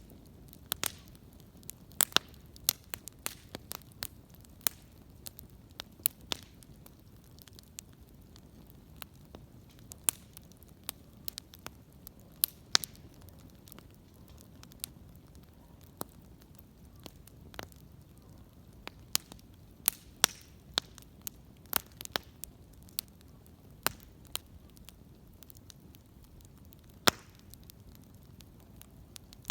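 Wood fire crackling: irregular sharp pops and snaps, a few each second, over a low steady rumble.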